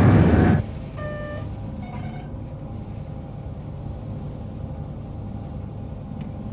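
Cartoon spaceship sound effects: a loud rushing noise cuts off about half a second in, leaving a low steady engine hum. Over the hum come two short electronic beeps, the second slightly higher than the first.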